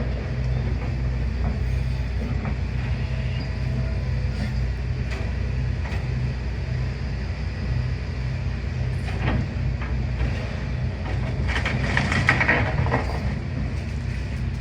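Demolition excavator's diesel engine running steadily, with scattered knocks and a louder stretch of crunching and clattering rubble about twelve seconds in.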